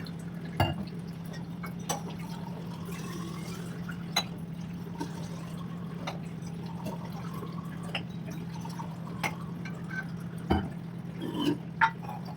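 Irregular light drips and taps over a steady low hum, with a few louder knocks near the end.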